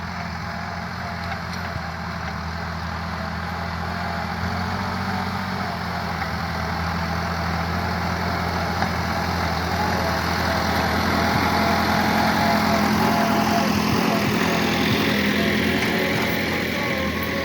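Massey Ferguson 385 tractor's four-cylinder diesel engine running steadily, growing gradually louder to a peak about two-thirds through, then easing slightly.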